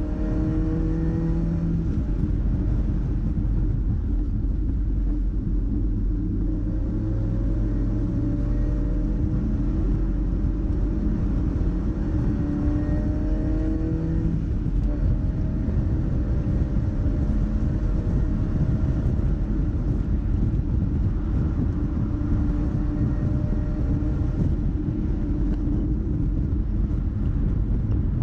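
Mazda MX-5's four-cylinder engine running on track, its note rising slowly in several long pulls, under a steady heavy rumble.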